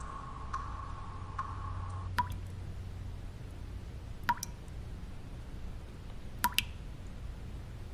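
Single water drops falling one at a time, each a short plink, a couple of seconds apart, over steady low white noise. A faint ringing tone under the first drops stops about two seconds in.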